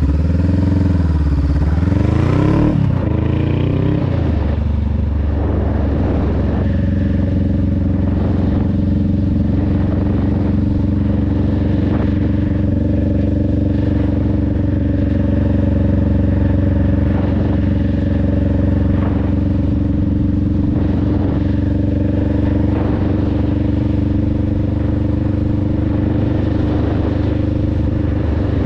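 Honda Rebel 500's 471 cc parallel-twin engine and exhaust on the move: the revs dip and climb over the first few seconds, then hold steady at a constant cruising speed.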